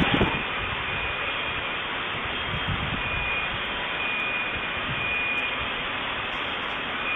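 Steady rushing noise on a muffled, band-limited surveillance-camera recording, with a faint high beep that repeats about once a second and a brief low thump at the very start.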